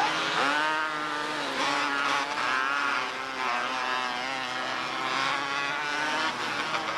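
Several small race car engines running at high revs together, their pitches rising and falling as the cars go around the track.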